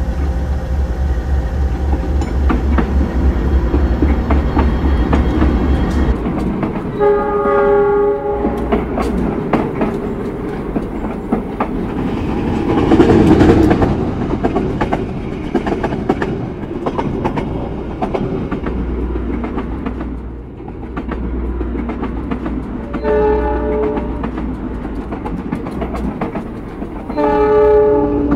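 Train running on the rails with a clickety-clack of wheels over the rail joints, and a diesel locomotive horn blowing three times: about a quarter of the way in, about four-fifths in, and near the end. A louder rushing swell comes about halfway through.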